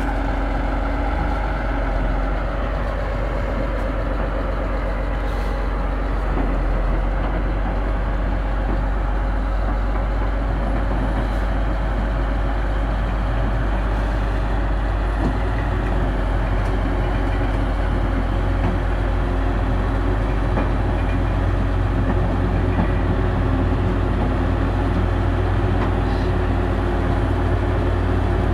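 Heavy diesel engines of a CAT 325D excavator and a CAT D300E articulated dump truck running steadily during a recovery pull, a continuous low drone throughout.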